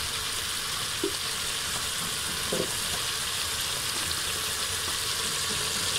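Cauliflower and beef curry sizzling steadily in oil in an open pressure cooker, being fried down (bhunai) after its cooking water has dried off.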